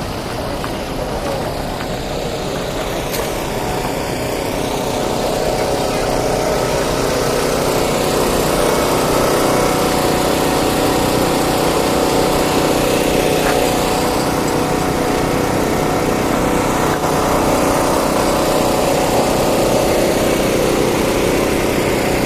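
Heavy truck diesel engine running steadily, getting louder over the first several seconds and then holding level.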